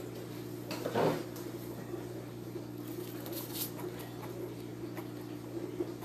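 A steady low hum with a few short handling noises: a brief rustle or knock about a second in, and light clicks past the middle.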